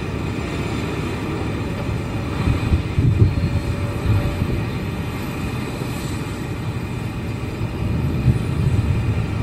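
Airbus A340-300's four CFM56 turbofan engines running at low taxi thrust: a steady low rumble that swells briefly about three seconds in and again near the end.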